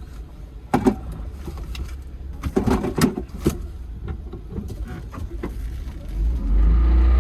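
A vehicle engine running low under several sharp knocks and clunks. About six seconds in, the engine gets louder and steadier.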